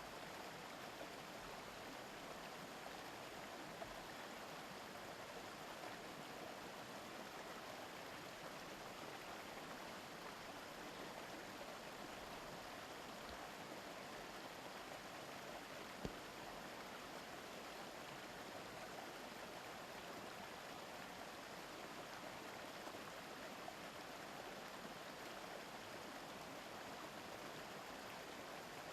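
A mountain stream babbling steadily. A single soft click sounds about 16 seconds in.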